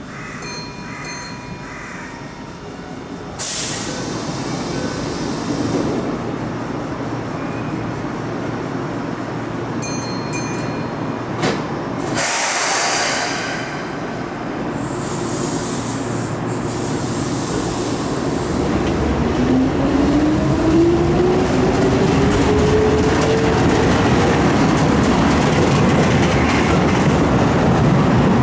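Keihan electric train pulling out of a station: short bursts of air hiss, then from about two-thirds of the way in a motor whine rising steadily in pitch as the train gathers speed, with the running noise growing louder. Faint electronic beeps sound twice in the first half.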